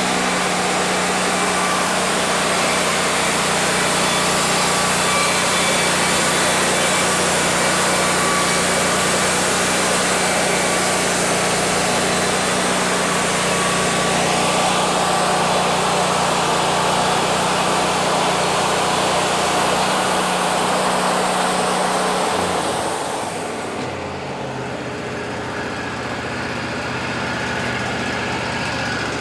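Wood-Mizer LT40 band sawmill running under load, its band blade cutting along a cedar log with a loud, steady hiss over the engine hum. About 23 seconds in, the cutting noise drops away and the engine settles to a lower, steady note.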